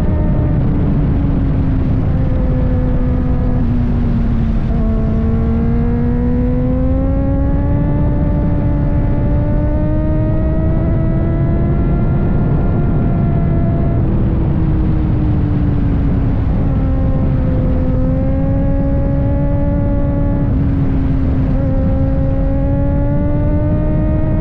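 Kawasaki ZX-4RR's inline-four engine running on the move, its pitch slowly sinking and rising again with a few small jumps, over a steady rushing noise.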